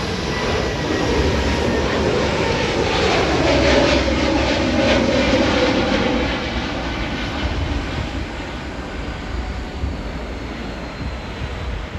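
Airbus A320 twin jet engines at takeoff power as the plane departs, loudest about four seconds in with a whine that falls in pitch as it passes, then fading away.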